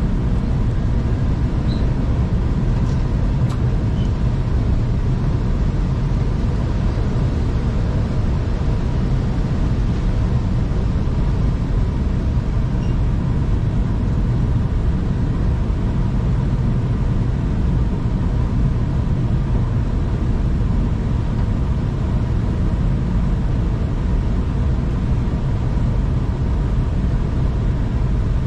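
V/Line passenger train running steadily at speed, heard from inside the carriage as a constant low rumble with a faint steady whine above it.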